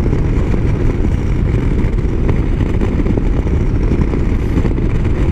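Motorcycle at highway speed: a steady, loud rush of wind on the microphone over engine and road noise.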